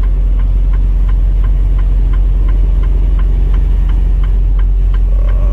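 Steady low engine and road rumble heard from inside a moving truck's cab, with a regular light ticking about four times a second over it.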